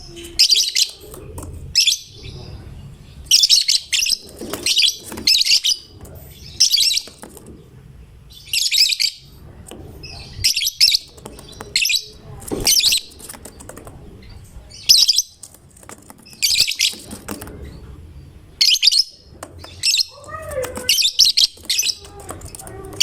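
Lovebird chirping in shrill, rapid chattering bursts, each lasting about half a second to a second and repeating every second or two.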